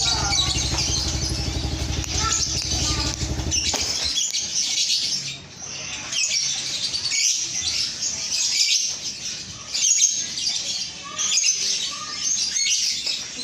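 Male lovebird chattering in a dense run of rapid high-pitched chirps. An engine runs underneath at first and cuts off about four seconds in.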